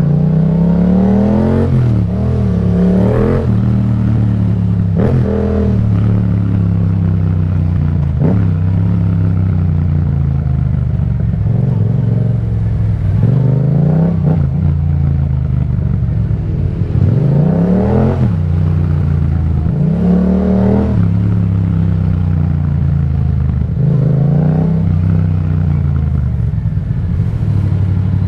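Yamaha MT-07's parallel-twin engine through an Akrapovic exhaust, ridden at road speed. It accelerates several times, the revs rising and then dropping back at each gear change.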